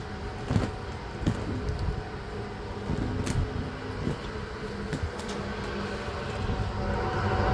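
A steady mechanical rumble with a low hum, broken by several sharp clicks or knocks, growing louder near the end.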